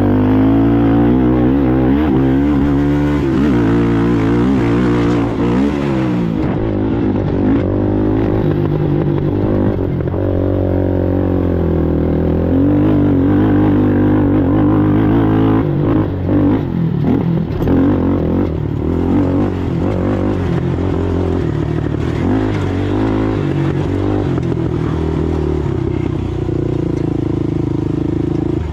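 Racing ATV's engine running hard, its pitch rising and falling continuously as the throttle is worked.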